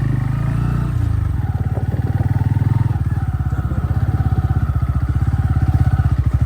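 Motorcycle engine running steadily at low revs, its rapid firing pulses even and unbroken.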